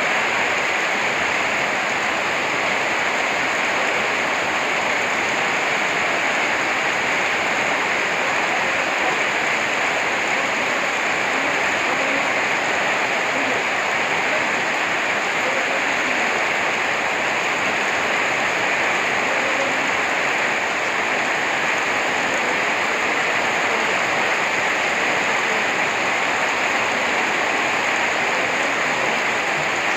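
Steady rain falling, a dense even hiss that does not let up.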